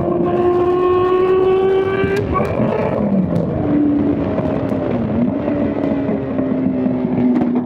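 Straight-piped Honda CBR600 inline-four engine running hard at high revs, its pitch climbing slowly. About two seconds in, the note falls away to a lower, steadier pitch, with a brief dip and recovery around five seconds.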